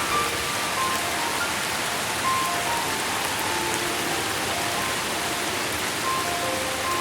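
Steady, even rain, with a slow melody of soft single notes, about one or two a second, playing over it.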